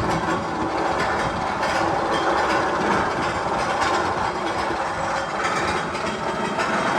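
Magnum XL-200 roller coaster running with a steady mechanical ratcheting clatter.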